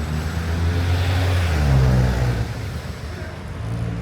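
Street traffic: a motor vehicle's engine running close by, swelling to its loudest about two seconds in and then easing off as it passes.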